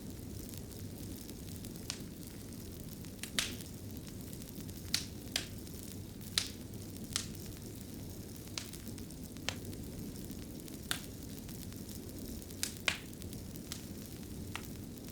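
Wood fire burning in a fireplace: a steady low rumble of flame with sharp, irregular crackles and pops, roughly one or two a second.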